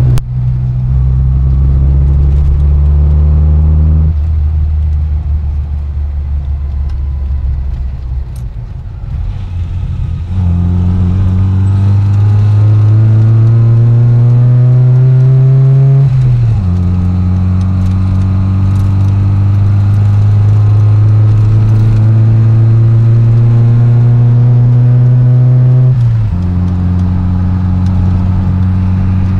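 A Mini's 998 cc A-series four-cylinder engine, on a full stainless exhaust with a K&N cone air filter, heard from inside the car while driving. It pulls, then eases off for several seconds about four seconds in. It then pulls again with a steadily rising pitch, drops in pitch suddenly as it changes up a gear just past halfway, and holds a steady cruise with a smaller drop near the end.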